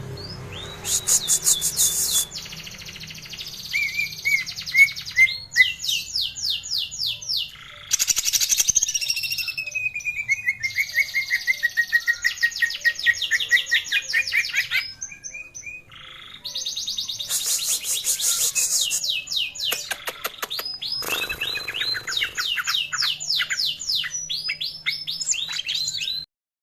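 Cucak ijo (green leafbird) singing in fast rapid-fire trills and whistled phrases, with a long descending whistle about ten seconds in and a short lull past the middle; the song cuts off suddenly near the end. It is a lure song meant to stimulate other cucak ijo to sing.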